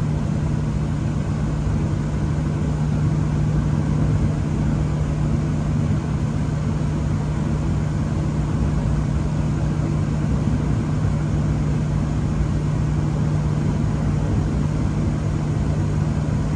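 Gas-fired HVAC unit running in heat at low fire: a steady mechanical hum with one strong low tone, unchanging throughout.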